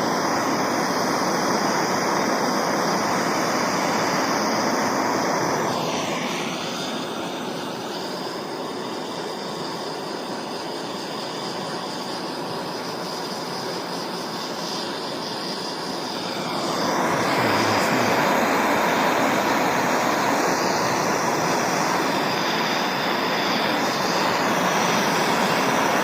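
Propane torch burning with a steady hissing rush while it heats a brass brand until it turns bronze. The sound drops a little and goes duller about six seconds in, then comes back up to full strength at about seventeen seconds.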